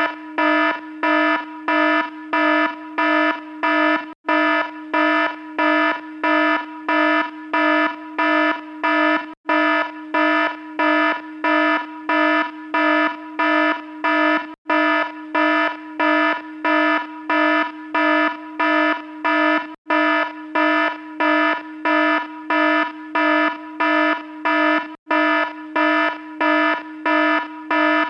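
An electronic alarm sounding a harsh, buzzy tone in rapid, even pulses, about two a second. The pattern repeats without change, with a brief dropout about every five seconds.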